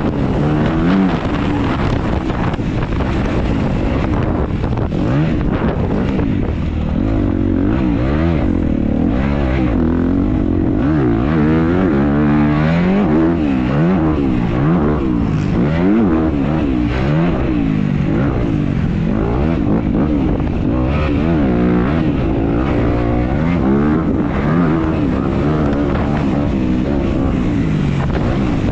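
Dirt bike engine being raced, its revs rising and falling over and over, about once a second, as the throttle is worked and gears change.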